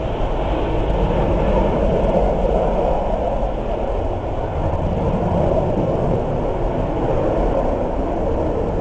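Steady low rumble of a Panavia Tornado's twin Rolls-Royce RB199 turbofan engines, an even roar without breaks.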